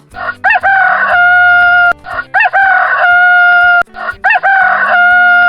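Rooster crowing three times in a row, cock-a-doodle-doo, each crow rising and then holding one long note.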